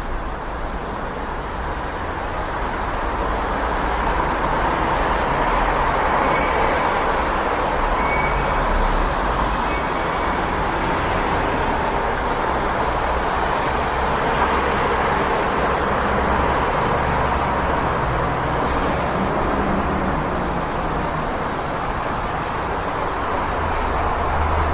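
City street traffic: a steady wash of passing vehicles with low engine rumble, with a few faint high chirps over it.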